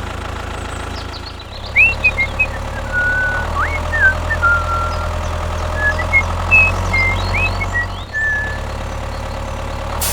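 A small motor running steadily with a low drone, the motor of a mini tractor. From about two seconds in, short high chirps and squeaks sound over it.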